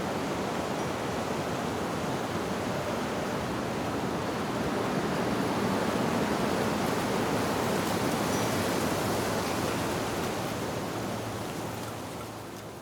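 Wind blowing steadily through tree leaves, a dense rushing hiss that swells slightly in the middle and fades out near the end. One faint, brief wind-chime tone is heard about eight seconds in.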